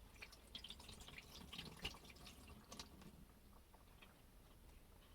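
Faint water splashing and dripping onto a car windscreen, a quick cluster of small patters over the first three seconds that then thins out.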